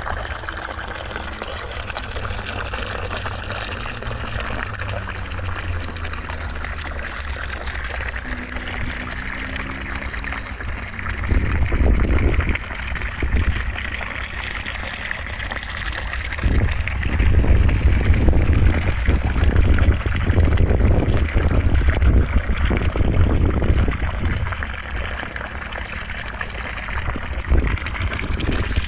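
Continuous rushing white noise with a deep rumble underneath that grows louder about eleven seconds in and again for several seconds past the middle.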